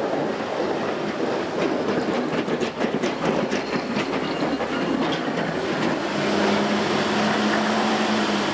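Vehicle noise: a dense clattering rumble with many quick clicks, joined by a steady low hum about six seconds in.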